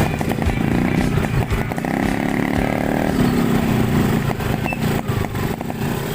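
Motorcycle engine running while riding, with wind noise over it.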